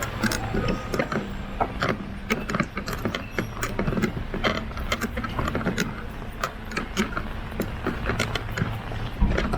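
Umbrella creaking and clicking in irregular, rapid ticks as it is carried, over a steady low rumble.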